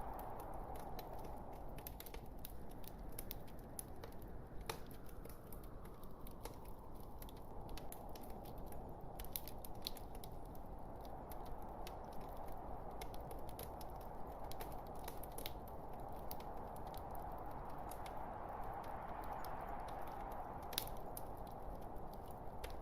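Wood fire crackling in a fireplace: a steady low rush with frequent small sharp pops and snaps, one louder pop near the end.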